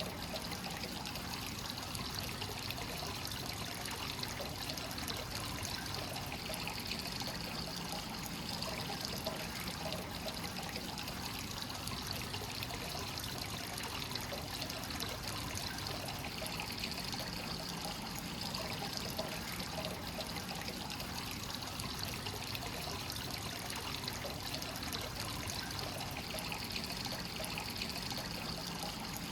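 Hot spring water from the source flowing without pause into a stone bath, a steady trickling pour.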